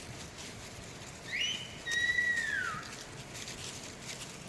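Someone whistling two notes: a short upward-sliding note, then a longer held note that slides down at its end.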